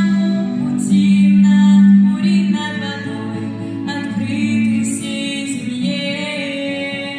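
A woman singing a Russian folk-rock song, accompanied on acoustic guitar, with long sustained sung notes.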